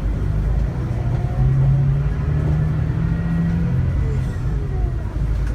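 Scania K360IB bus's five-cylinder diesel engine running under way; its note steps up about a second and a half in, holds, then drops back near four seconds.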